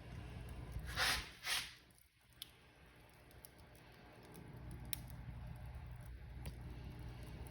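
Fireplace fire crackling, with scattered sharp pops over a steady low rumble. Two louder crackling bursts come about a second in, after which the rumble fades away for a couple of seconds and then comes back.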